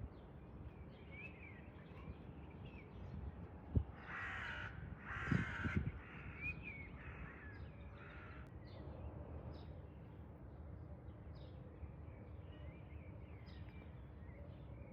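Harsh bird calls: two loud ones about four and five and a half seconds in and a fainter one near eight seconds, with a few small chirps over a quiet outdoor background.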